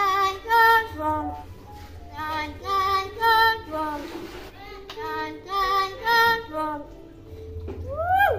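Hill myna mimicking a high, child-like human voice in sing-song phrases, repeated three times. Near the end it gives a quick rising whistle.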